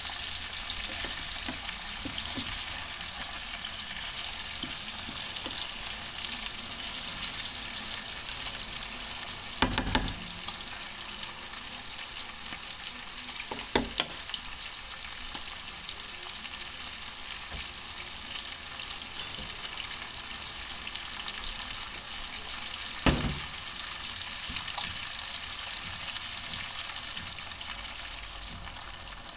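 Chicken feet frying in hot oil, a steady crackling sizzle. Sharp knocks sound three times: about ten seconds in, about fourteen seconds in and about twenty-three seconds in.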